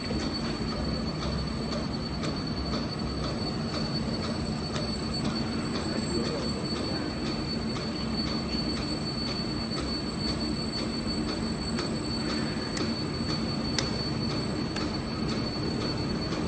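Automatic fish cake cutting machine running steadily: an even motor hum with a thin high whine over it and faint, regularly repeating ticks from the cutting mechanism.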